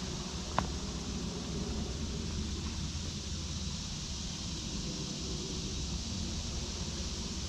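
Steady outdoor hiss with a low rumble underneath, and one sharp click about half a second in.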